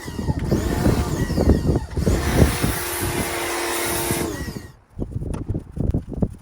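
Nilfisk Core 140 electric pressure washer running as snow foam is sprayed through a foam cannon: a motor and pump whine over a steady spray hiss. The motor winds down and stops about five seconds in, followed by irregular knocks and taps.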